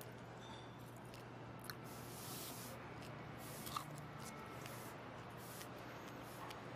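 Faint chewing and small clicks and rustles of people eating, over a quiet room tone with a low steady hum.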